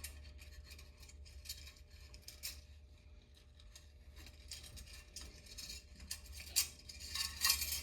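Scattered light metallic clicks and scrapes of a Homelite XL2 Auto chainsaw's recoil starter rewind spring and plastic housing being handled, getting louder near the end, over a steady low hum.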